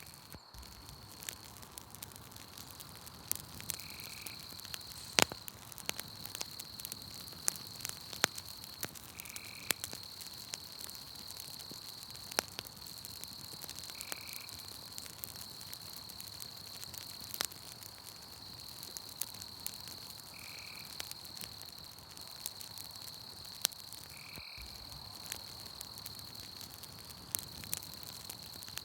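Campfire crackling, with sharp pops scattered throughout, over a steady high-pitched insect trill. A short chirping call comes about every five seconds, five times in all.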